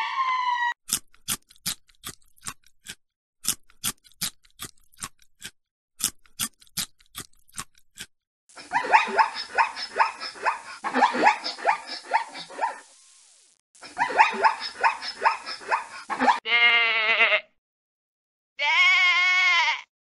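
A string of sharp clicks in short groups, then a long run of rough, rapid, pulsed animal calls, then two wavering sheep bleats near the end.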